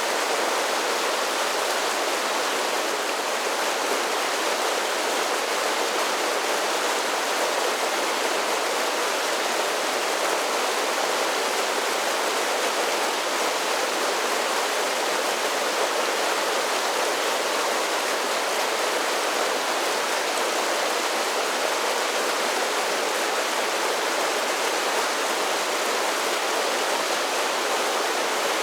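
A mountain creek running down a series of small cascading falls, a steady, even rush of water.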